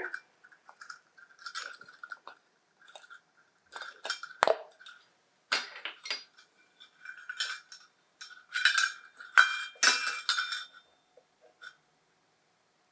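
A tablespoon clinking and tapping against a bowl in scattered, irregular strokes while sauce ingredients are measured in; the clinks stop near the end.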